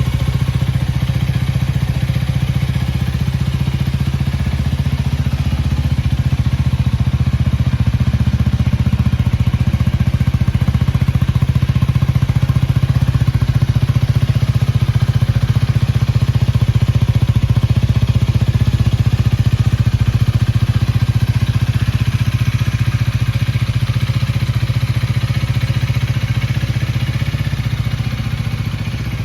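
Honda Rebel 250's single-cylinder engine running steadily at a constant, unrevved speed, with a slight drop in level near the end.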